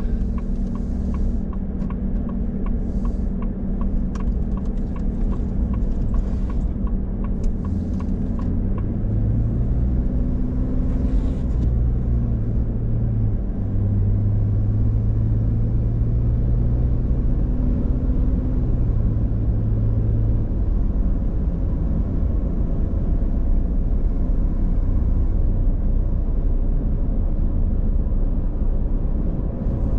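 Car driving: a steady low rumble of engine and road noise, its hum shifting in pitch between about eight and twenty seconds in. A light, regular ticking, about two a second, runs through the first nine seconds or so.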